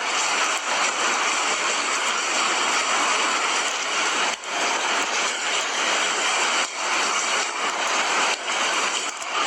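Steady heavy rain, an even, continuous hiss.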